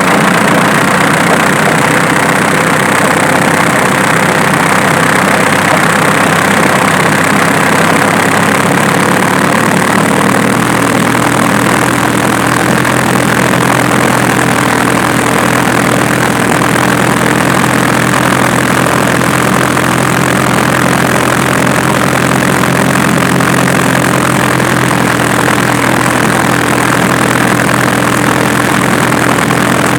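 Diesel engine idling steadily, its low tone shifting slightly about ten seconds in.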